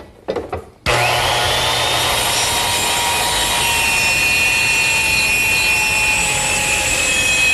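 Small circular saw cutting a plywood panel to length along a straight-edge guide: a steady motor whine over wood-cutting noise, starting abruptly about a second in after a few light knocks.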